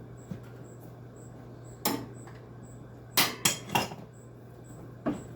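Sharp metal clinks and knocks from hand tools and loose parts on a window air conditioner's sheet-metal housing during disassembly. There is a single one about two seconds in, three in quick succession a little after three seconds, and another near the end.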